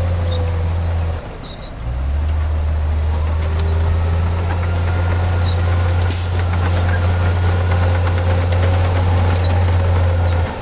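Heavy diesel engine of earthmoving machinery running steadily with a deep hum. It cuts out briefly about a second in, then carries on.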